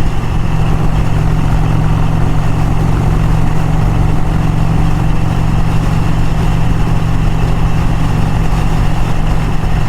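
1951 Vincent Rapide's 998 cc V-twin engine running at a steady cruise, heard from the moving motorcycle with wind and road rush, without change in pitch or load.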